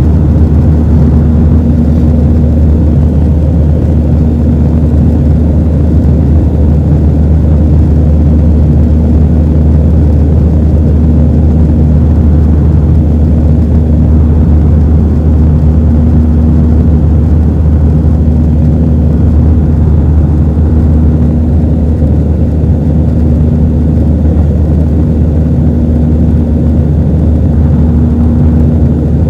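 Steady cabin noise aboard an Airbus A320-212 in flight: the drone of its CFM56-5A jet engines and rushing air, with a deep hum and a fainter higher tone that comes and goes every second or two.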